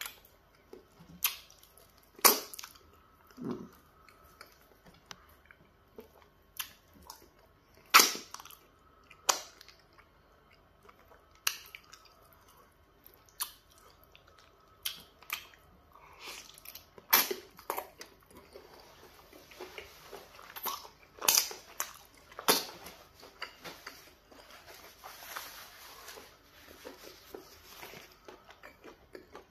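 Close-up eating sounds from pounded yam fufu and peanut butter soup: chewing with scattered sharp wet lip smacks and mouth clicks, coming more densely in the second half.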